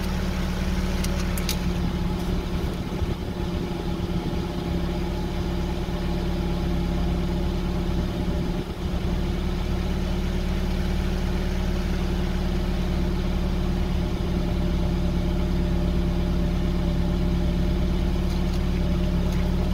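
Car engine idling steadily, heard from underneath close to the exhaust back box. The box's large hole is patched with layers of aluminium exhaust tape, and the patch holds well enough that the exhaust no longer blows.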